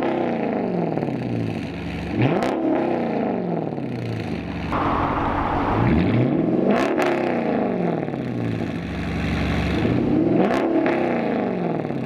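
Straight-piped Dodge Challenger R/T V8 free-revving in three long blips about four seconds apart, each climbing and falling back, with sharp cracks from the open exhaust near the top of the revs.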